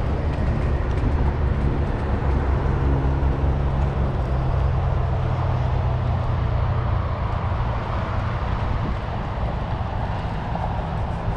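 Steady rumble and wind noise from riding a bicycle with a handlebar or helmet camera, over a bumpy track. A low engine-like drone sits under it for the first half or so and then fades away.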